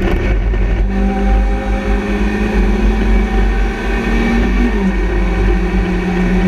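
Engine of a BMW Compact Cup-spec race car running hard under load, heard from inside the stripped cabin. Its note climbs slightly and then steps down about four and a half seconds in.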